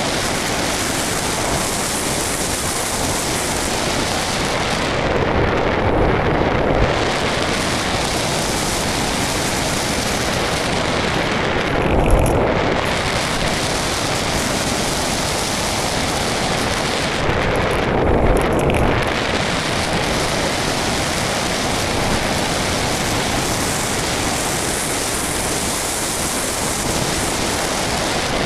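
Steady rush of airflow and motor noise picked up by the onboard camera of a flying RC Blizzard model plane. About every six seconds the sound dulls in the treble and swells in the low end for a second or two.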